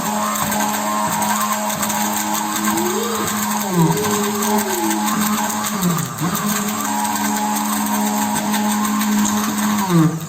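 Electric blender running steadily, emulsifying egg yolk, vinegar and oil into mayonnaise as the oil is added slowly. Its pitch dips briefly a few times, about four seconds in, about six seconds in and near the end, as the motor slows under load.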